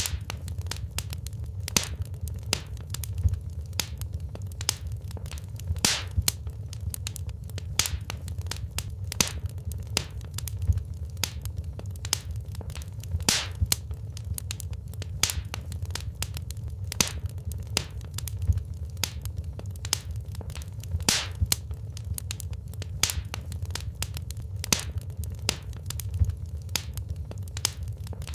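Wood fire crackling in a fireplace: irregular sharp snaps and pops, some louder than others, over a steady low rumble of the burning fire.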